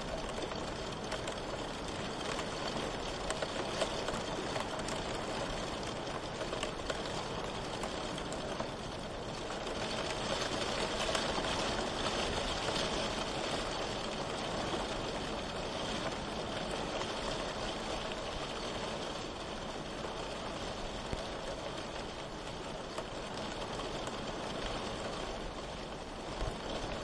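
Steady rain falling, a dense even hiss with fine scattered drop ticks, swelling slightly for a few seconds near the middle.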